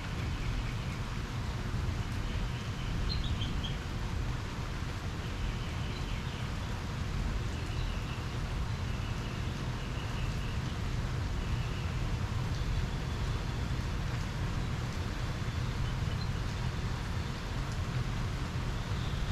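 Storm wind rumbling on the microphone, with faint, short high chirping trills repeating every few seconds.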